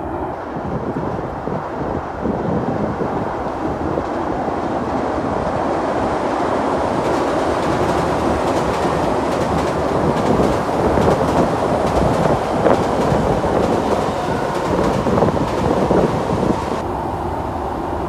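Tokyo Metro Tozai Line train running over a steel truss railway bridge: a steady rumble of wheels on rails and bridge that grows louder as it comes nearer, with scattered clacks of wheels over rail joints.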